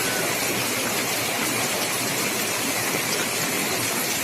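Rain falling steadily: an even hiss that does not change in level.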